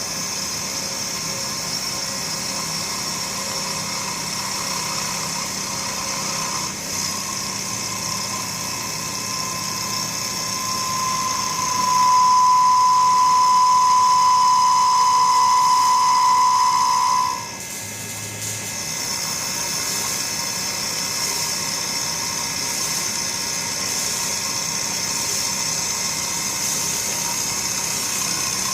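Motor-driven woodworking machine running with a steady whine. The whine grows louder about a third of the way in, holds for several seconds, then drops away sharply and the machine carries on more quietly.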